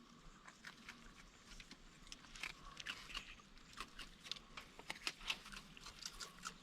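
Raccoons chewing and crunching dry food: faint, irregular crisp crunches and clicks throughout.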